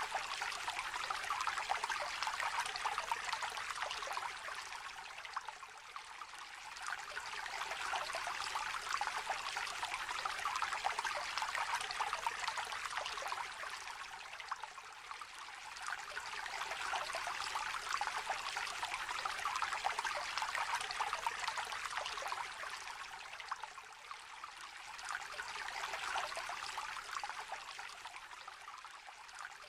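A small, shallow river trickling and babbling over stones: a steady rush of water that swells and eases slowly every several seconds.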